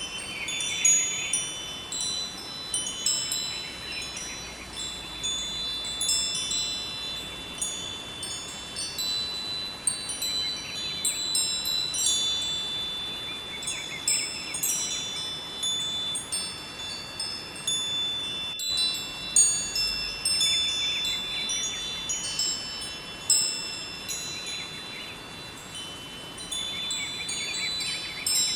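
Wind chimes ringing in irregular clusters of high, overlapping bell-like tones, over the steady rush of a river. The sound breaks off for a split second a little past halfway.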